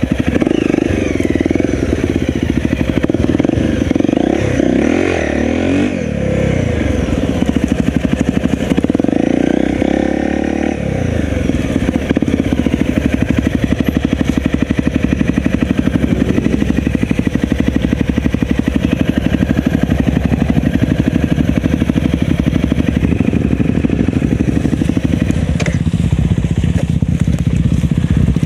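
Enduro motorcycle engine running steadily at low revs. It is blipped twice, rising and falling in pitch about four to six seconds in and again around ten seconds in.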